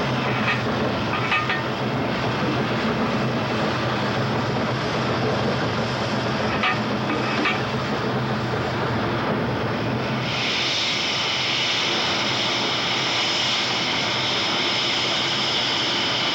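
A train running: a steady rumbling drone with a few clusters of clicks and rattles, and a loud steady hiss that joins about ten seconds in.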